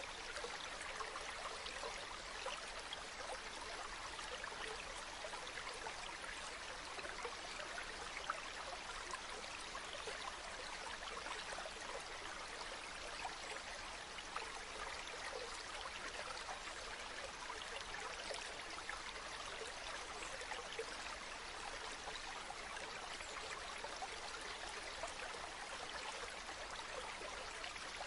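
Running water of a stream or waterfall in a steady, even rush, with fine splashing and trickling all through.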